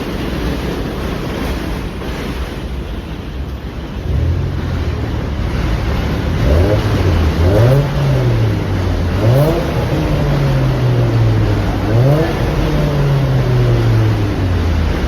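Car engine revving over and over, its pitch rising and falling, starting about four seconds in after a stretch of wind noise.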